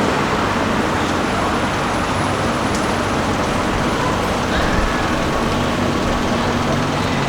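City street traffic: a steady din of passing road vehicles, engine hum and tyre noise.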